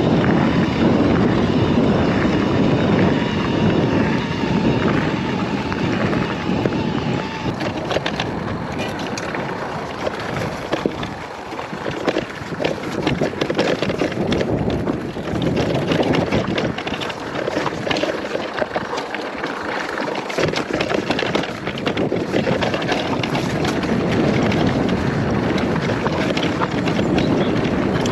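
Wind buffeting an action camera's microphone while riding an electric mountain bike on a trail. Tyre noise and frequent small knocks and rattles come in from about a third of the way in as the bike goes over rough ground.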